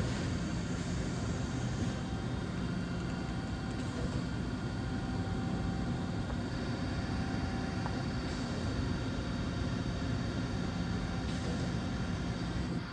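DVF 5000 five-axis CNC mill running through a machining cycle: a steady mechanical running noise with several steady whining tones over a low rumble.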